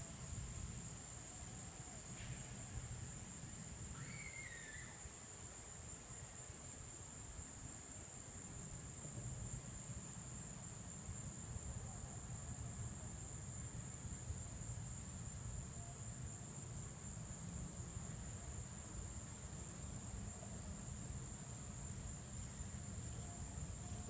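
Steady high-pitched insect chorus of evening crickets or katydids, with a low rumble underneath. There is a short chirp about four seconds in.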